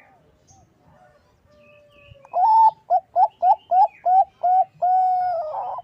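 Zebra dove of the Thai-bred perkutut bangkok line cooing its song phrase after about two seconds of quiet: an opening coo, a quick run of about seven short notes, then one long held note that breaks into a burr at its end.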